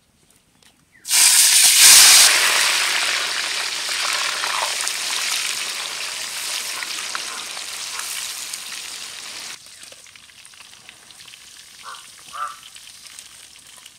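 Cubes of paneer tipped into a wok of hot oil, which starts to sizzle loudly about a second in as they deep-fry. The sizzling slowly dies down, then cuts off suddenly.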